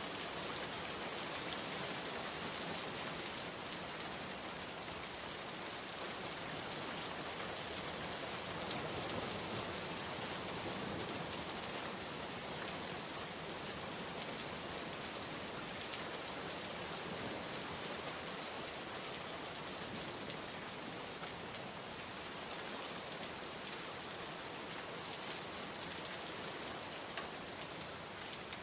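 Steady rain falling and pattering on a surface, an even hiss of many drops with faint individual drop ticks.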